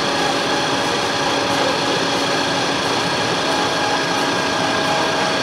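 Sawmill machinery running steadily, a dense mechanical noise with a steady whine held throughout.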